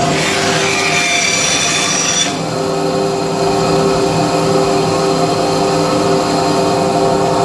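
Bandsaw running steadily and cutting plywood. The bright cutting hiss eases off about two seconds in while the motor hum carries on.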